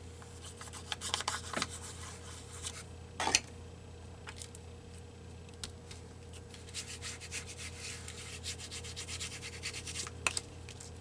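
Short scratchy rubbing strokes on paper, coming in bursts, with a sharper, louder scrape about three seconds in and another near the end.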